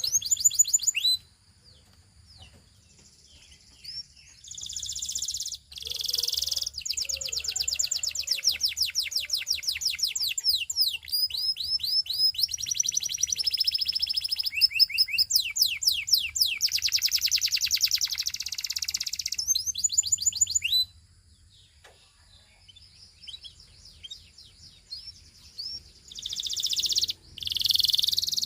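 Belgian canary singing long, high-pitched phrases of fast repeated trills and rolling notes. It pauses briefly near the start and again for several seconds after about two-thirds of the way.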